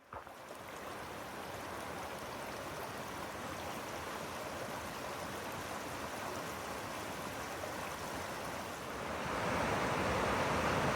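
Rushing water of the McCloud River, a steady roar that grows louder about nine seconds in.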